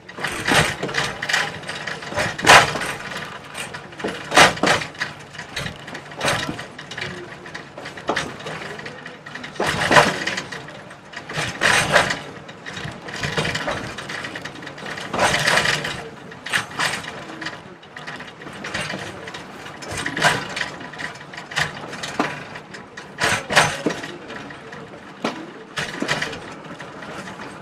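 Moving train's wheels and running gear clattering and rattling over the track. Louder knocks come every couple of seconds over a steady rattle.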